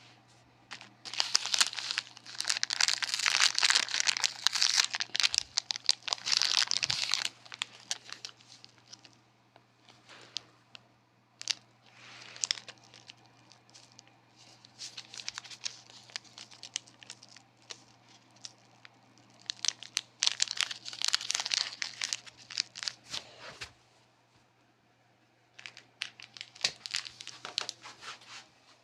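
Crinkling and tearing of wrapping in three bouts: a long one in the first seconds, a shorter one past the middle and another near the end, with scattered crackles between and a steady low hum beneath.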